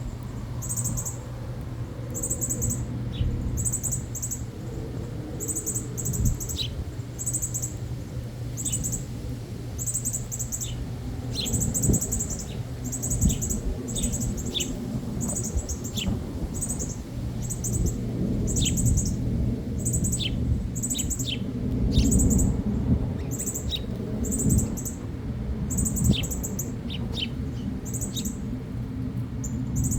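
Small birds chirping: short, high chirps repeating about twice a second, mixed with thin down-slurred notes. A steady low hum and rumble run underneath.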